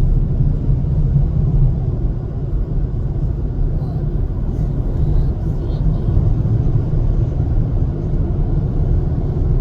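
Steady low rumble of a vehicle on the move: engine and road noise, even throughout.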